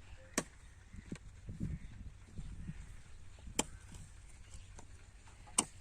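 Three sharp knocks, a couple of seconds apart, over a low steady rumble, with some softer thuds between them.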